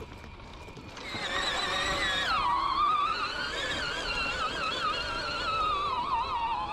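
A small engine's high-pitched buzzing whine that starts about a second in, drops in pitch a little soon after, then wavers up and down as the throttle changes.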